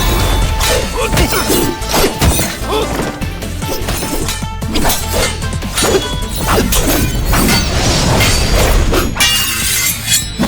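Action soundtrack music under a rapid run of fight sound effects: repeated hits, whacks and crashing, smashing impacts.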